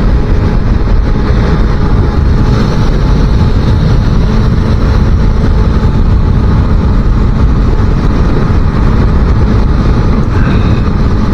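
250cc motorcycle being ridden at a steady pace: the engine runs evenly under heavy wind rush on the microphone.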